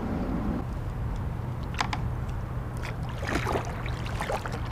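Kayak in shallow water: a few short splashes and knocks of paddle and hull in the water, over a steady low hum.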